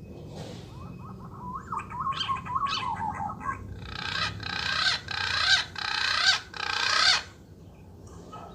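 Recorded bird calls played through a bird-caller speaker: a run of quick rising chirps, then four loud stretches of rapid chattering calls, each about a second long, ending about seven seconds in.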